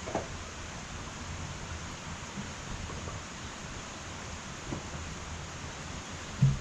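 Wood fire burning in an irori hearth: a steady low hiss with a few scattered pops, the loudest near the end.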